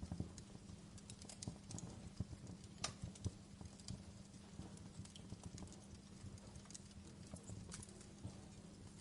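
Wood fire in a fireplace crackling, with irregular sharp pops from the burning logs, the sharpest about three seconds in, over a low rumble.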